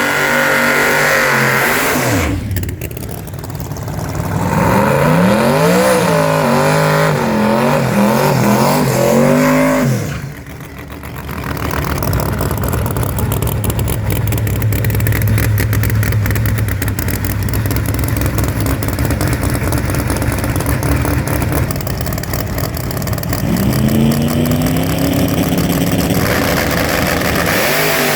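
Supercharged drag race car engines revving, with the pitch rising and falling in quick swings, then a long stretch of steady full-throttle engine noise, with the pitch climbing again near the end.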